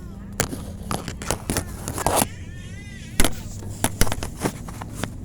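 Airliner cabin before takeoff: a steady low hum with irregular sharp clicks and knocks scattered over it, the loudest about three seconds in.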